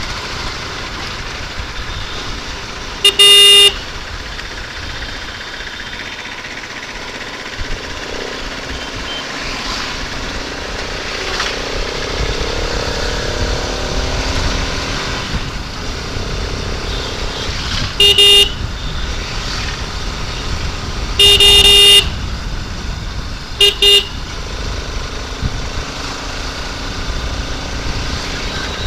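Steady road and wind noise of a motorcycle riding through city traffic, broken by four short, loud honks of a vehicle horn, the third one held longest.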